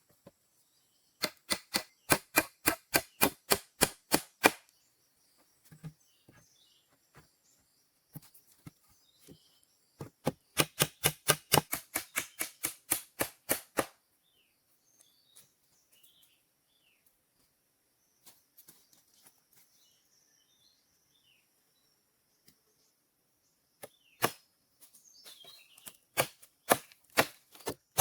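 Two runs of quick, sharp strikes, about four a second, each lasting a few seconds, then scattered knocks near the end: a hand tool striking wood.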